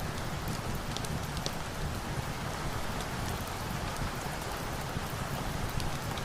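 Steady rainfall: an even hiss of rain with a low rumble beneath and scattered short, sharp ticks.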